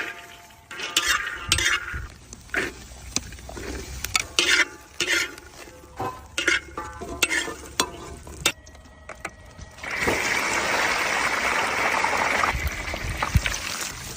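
Cooking in a pan: a utensil stirring, clinking and scraping against it for about ten seconds, then a loud steady sizzle of frying for about two and a half seconds.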